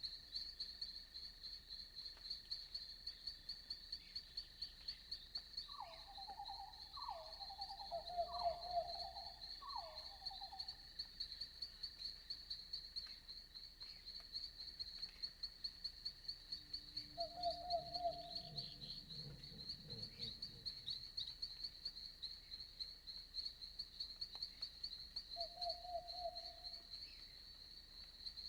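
Night insect chorus of crickets: a steady, high, rapidly pulsing trill with a fainter steady whine beneath it. Over it, an animal gives four short calls in quick succession about six seconds in, then single short calls around two-thirds and nine-tenths of the way through.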